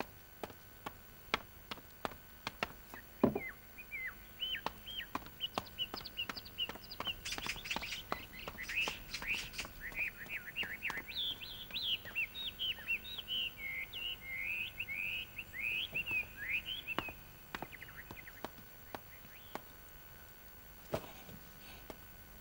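Small birds chirping in a quick, busy run of short high chirps that starts a few seconds in and thins out near the end. Scattered sharp ticks and taps sound throughout, with a louder knock about three seconds in.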